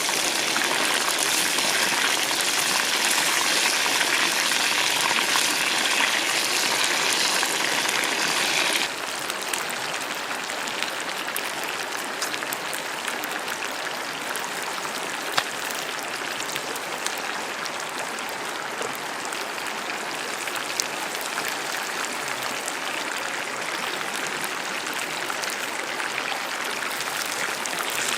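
Hot oil sizzling steadily as a whole chicken deep-fries, a dense rain-like hiss with occasional sharp crackles. It drops suddenly to a quieter sizzle about nine seconds in.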